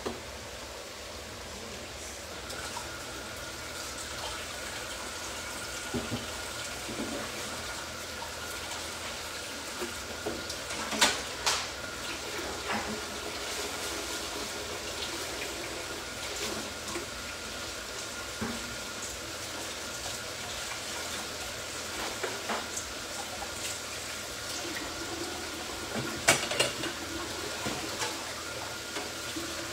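Potato chips frying in hot oil in a shallow pan: a steady sizzle with scattered pops and crackles, two louder clusters of crackles standing out, one about a third of the way in and one near the end. A faint steady high tone runs underneath from about two seconds in.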